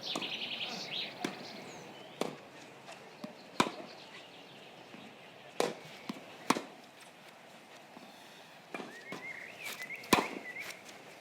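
Tennis balls struck by rackets on a grass court: sharp, irregular hits a second or two apart, with birds chirping faintly near the end.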